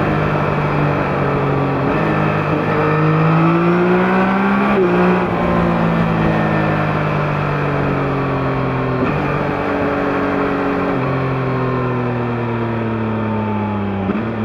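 Yamaha MT-09's 890 cc CP3 inline-three engine through its stock exhaust, pulling with pitch rising for a few seconds and then easing off, its pitch slowly falling with a couple of small jumps. A short click comes near the end.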